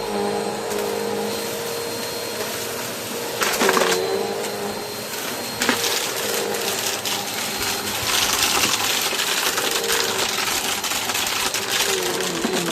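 Bissell PowerForce Helix Turbo upright vacuum cleaner running with a steady motor whine while it picks up dirt, with a crackle of debris being sucked up. The crackling noise grows louder from about two-thirds of the way in.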